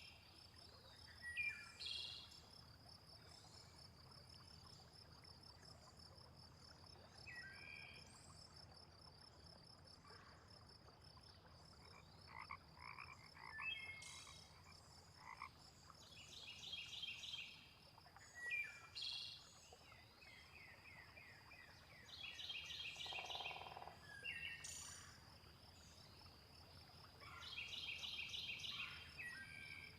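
Frogs calling in short bursts of rapid pulsed croaks every few seconds, over a steady high pulsing insect trill, with brief bird chirps in between. It is faint overall and forms a layered nighttime nature soundscape.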